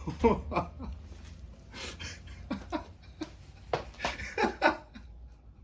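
Short bursts of a person's voice with laughter, over a steady low hum.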